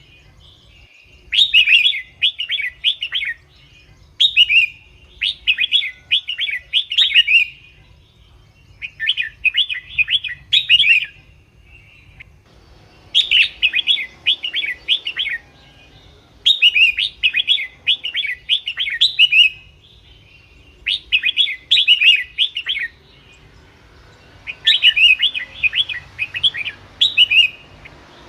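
Red-whiskered bulbul singing: short, quick, warbling phrases of chirpy notes, repeated about every three seconds with brief pauses between. This is the lively song used as a call to lure bulbuls or rouse them.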